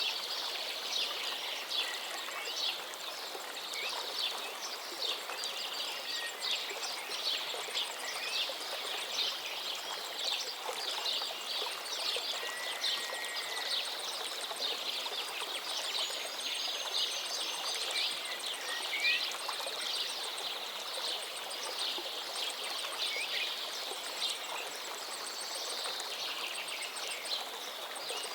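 Flowing river water with a steady rush, and many small birds chirping busily over it throughout, with a few clear whistled notes standing out.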